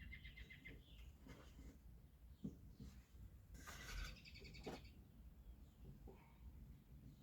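Faint bird chirps in quick high series, once at the start and again more loudly a little under four seconds in, over quiet room rumble.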